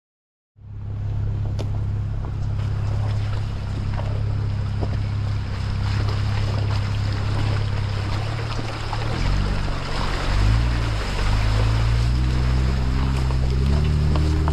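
Jeep Wrangler JL's engine running as it drives along a forest service road, with tyre and road noise. The engine note is steady at first, then from about nine seconds in its pitch rises and wavers as the engine speed changes.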